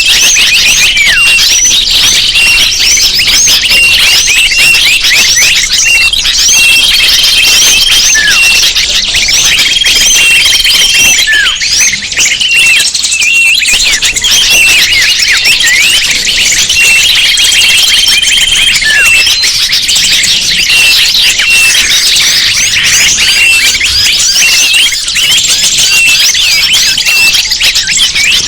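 Dense, loud chorus of many small birds chirping and twittering without a break, used as a bird-lure (pikat) recording. A few held whistled notes recur among the rapid chirps.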